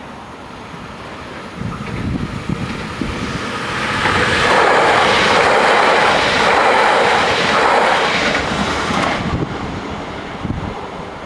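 MS08 (Siemens Desiro ML) electric multiple unit passing over a level crossing: the sound grows over a few seconds, stays loudest for about five seconds as the carriages go by, then fades.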